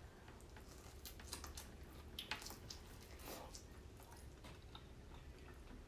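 Faint, close-up chewing with wet squishing and small mouth clicks: a person eating seafood.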